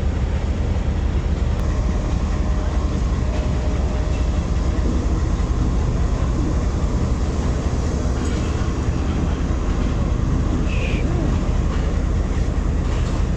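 Diesel-electric locomotive and its passenger train moving past along the platform, a steady, heavy low rumble.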